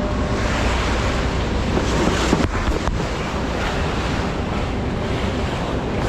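Wind buffeting the microphone over the steady low running of a semi truck's diesel engine.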